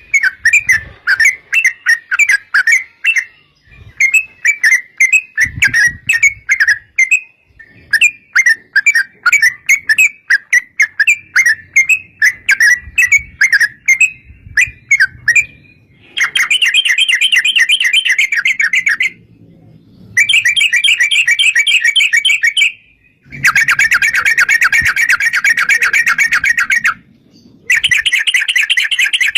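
Yellow-vented bulbul singing loud chattering phrases of quick bubbling notes with short breaks. About halfway through the song turns into long, very fast continuous trills, in blocks of several seconds split by short pauses.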